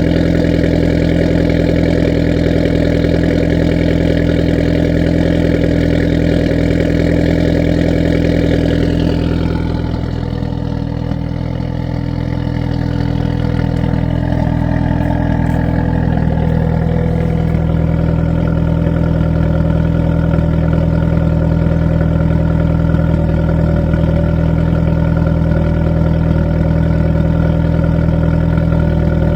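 Hyundai Veloster N's 2.0-litre turbocharged four-cylinder idling after a winter cold start. The sound dips and softens from about nine seconds in, then returns to a steady idle a few seconds later.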